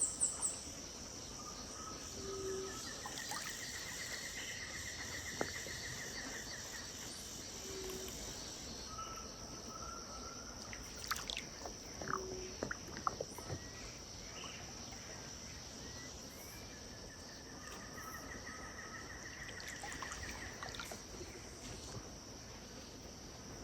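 Wetland riverside ambience at dusk: a steady high insect drone, with birds calling over it, including two long trills and short repeated lower notes. There are a few sharp clicks and chirps near the middle.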